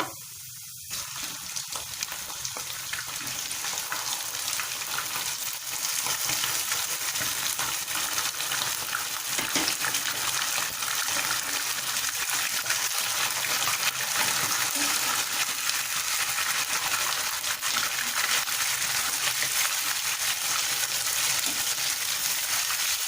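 Raw chicken pieces sizzling as they fry in hot oil with golden fried onions, being stirred in the pot. The sizzle starts about a second in and grows louder around six seconds in, as the chicken's water begins to cook off.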